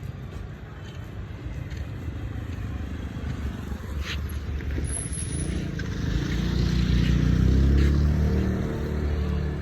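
A motor vehicle's engine running and passing, growing louder about six seconds in, then fading over low rumbling noise.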